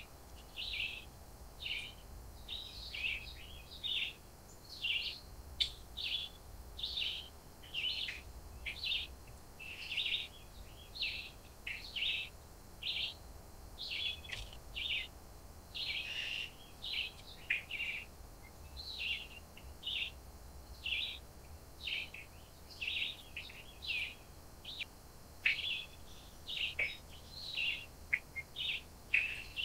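Small wild birds chirping and calling, short high chirps following one another a few times a second without a break.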